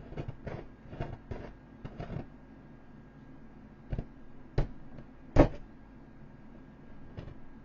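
A series of short, sharp knocks and thumps on an inflatable boat as it is struck with a tool to puncture it, about nine blows at uneven spacing, the loudest about five and a half seconds in.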